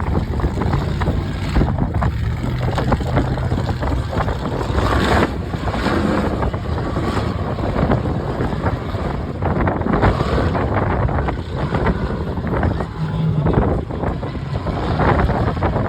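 UTV engine running while driving, with wind buffeting the microphone.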